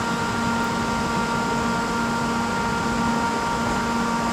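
Steady electrical hum with several fixed whining tones from a class 350 electric multiple unit standing at the platform with its equipment running.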